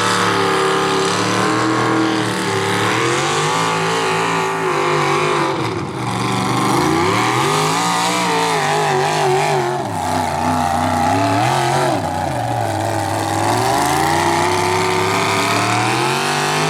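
Mini rod pulling tractor's engine running loud under load, its revs rising and falling again and again.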